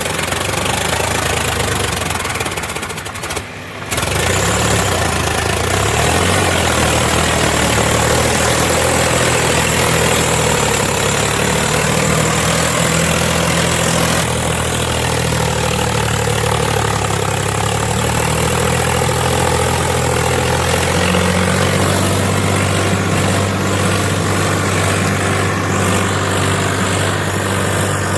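Tractor diesel engine running, its pitch shifting up and down. There is a brief drop about three and a half seconds in.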